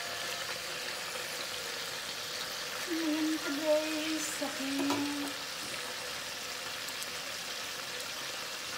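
Chicken wings and pork slices frying with garlic in a shallow layer of oil in a pan: a steady sizzle. About three seconds in, a brief voice and a sharp tap are heard over it.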